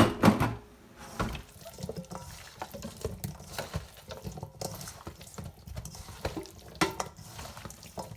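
Hands mixing seasoning into raw chicken pieces in a bowl: wet squelching with irregular small clicks, and a couple of louder knocks at the start and about seven seconds in.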